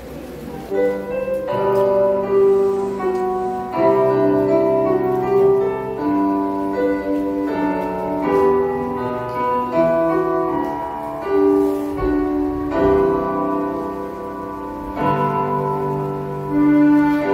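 Slow instrumental music: violins playing a sustained melody with piano accompaniment.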